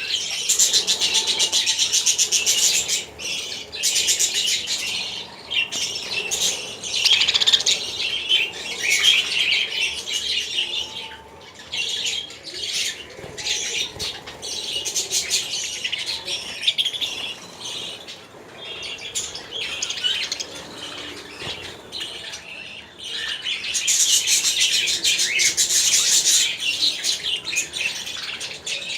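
Many small birds chirping and chattering at once, a dense continuous twitter with squawks, swelling loudest at the start and again from about 24 seconds in.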